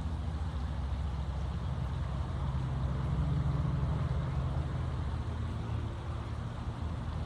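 Low, steady engine drone from a motor vehicle, swelling slightly in the middle.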